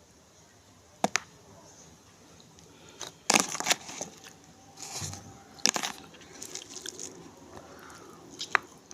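Crab shell being cracked, pulled apart and chewed up close: sharp cracks about a second in, then several louder crunching bursts spread through the rest.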